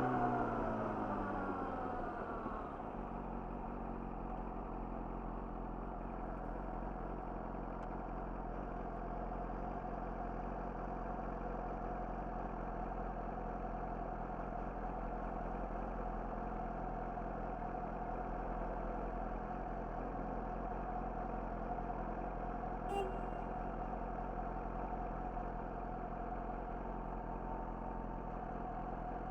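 Yamaha YZF-R6's inline-four engine through an Akrapovic slip-on exhaust, revs falling over the first couple of seconds as the bike slows, then idling steadily.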